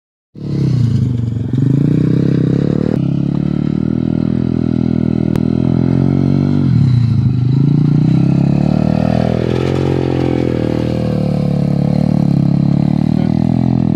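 Motocross bike engine running hard, its pitch rising and falling as the throttle is worked, dropping sharply about halfway through and then picking up again.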